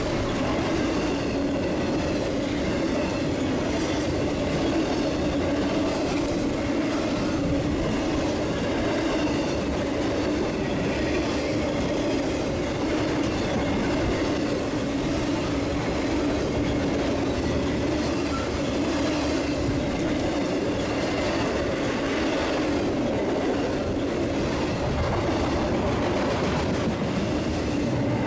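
BNSF intermodal container train rolling past: a steady rumble of steel wheels on rail with a clacking of the wheels running through it.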